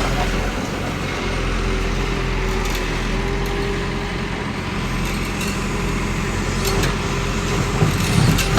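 Heavy diesel construction machinery running steadily, with a few knocks near the end.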